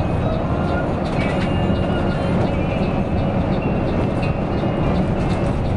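Steady low rumble of a Mercedes-Benz OC 500 RF 2542 coach on the move, heard from inside the cabin: engine, drivetrain and road noise, with faint light ticking and rattles over it.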